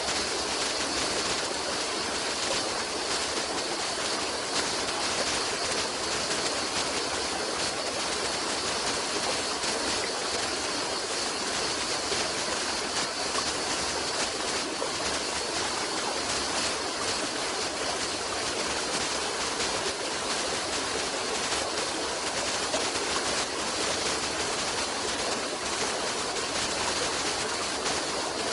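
Running water flowing steadily, a continuous even rush with no breaks.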